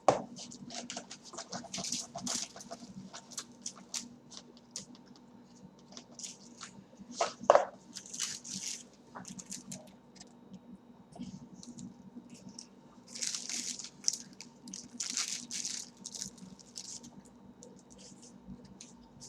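Close-up eating sounds: chewing and mouth clicks, with bursts of rustling paper packaging. Two louder sharp knocks come at the very start and about seven seconds in.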